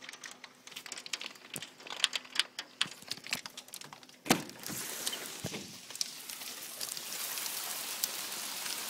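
Pea-sized hail and heavy rain: scattered sharp ticks of hailstones striking for the first four seconds, then, after a louder knock about four seconds in, a steady hiss of rain.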